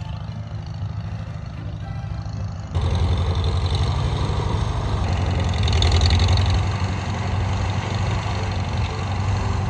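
Old Farmall tractor's engine running steadily as the tractor drives along. The sound steps up suddenly to louder and fuller about three seconds in.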